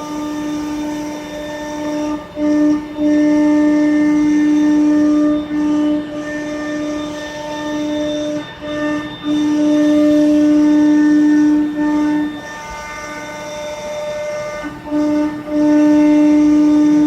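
CNC router spindle running with a steady, fixed-pitch whine. The sound swells loud for several-second stretches, then drops back quieter between them.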